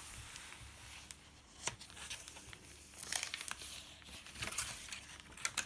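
Paper pages of a thick handmade journal being turned and handled, rustling and crinkling, with several short bursts of rustle and small taps.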